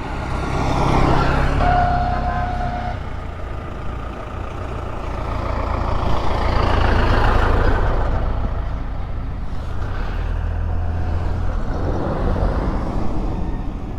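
Road traffic: motor vehicles running and passing, with two swells of engine and road noise, about a second in and around seven seconds, and a short steady tone near two seconds.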